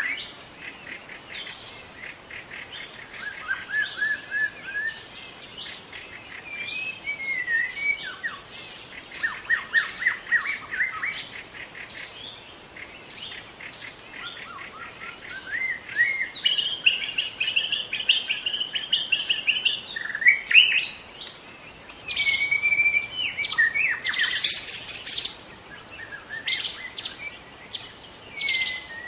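White-rumped shama singing a long, varied song of whistled phrases, sliding notes and rapid chirping strokes, broken by short pauses.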